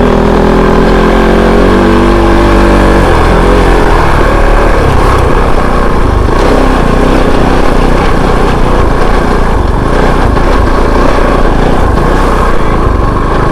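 Kove 450 Rally's single-cylinder engine running while riding off-road. Its pitch is steady for about the first three seconds, then the sound turns rougher and more uneven.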